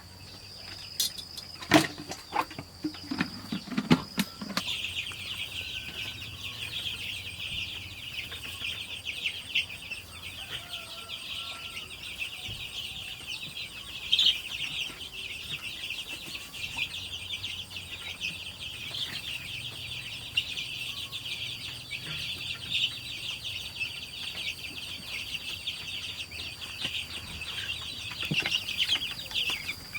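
A flock of young native chicks peeping continuously, a dense chorus of short high cheeps that swells in about four and a half seconds in. A few sharp knocks come in the first few seconds.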